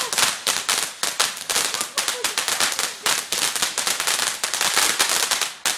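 A rapid, continuous string of firecrackers going off, several sharp cracks a second, that stops near the end.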